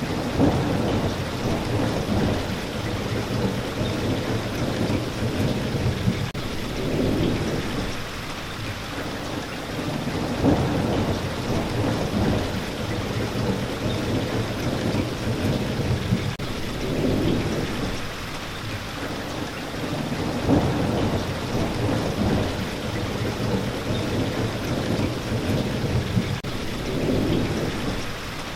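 Steady rain falling, with low rolling rumbles of thunder swelling and fading every few seconds.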